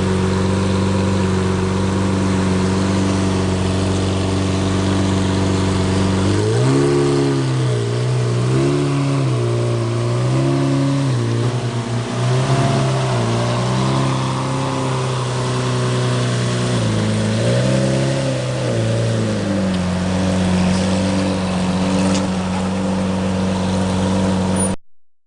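Lamborghini Murciélago LP640's 6.5-litre V12 at low speed while parking: it idles steadily, then rises and falls in pitch several times with gentle throttle blips as the car is manoeuvred, then settles back to a steady idle. The sound cuts off abruptly near the end.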